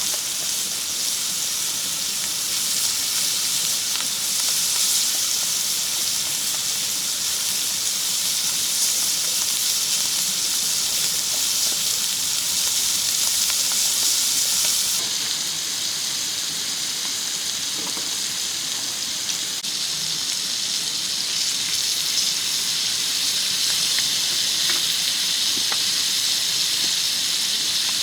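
Food frying in a hot pan over a campfire, a steady sizzle with small pops and crackles; the sizzle's tone changes abruptly about halfway through.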